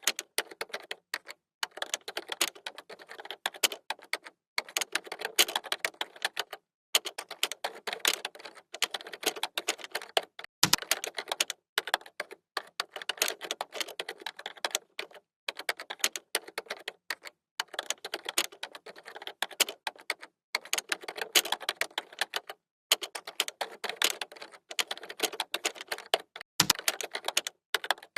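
Computer keyboard being typed on quickly: rapid key clicks in runs separated by short pauses, with two heavier key strokes that carry a deeper thud, about a third of the way in and near the end.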